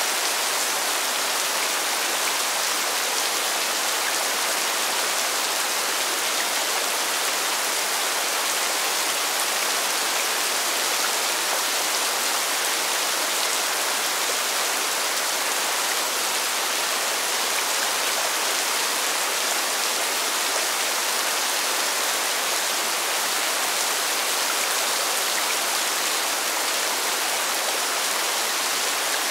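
Steady rain falling on pavement, an even hiss that holds unchanged throughout.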